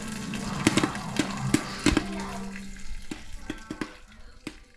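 The last few popcorn kernels popping in a pot on the stove with the heat turned off, sharp irregular pops that thin out and fade away over the last couple of seconds.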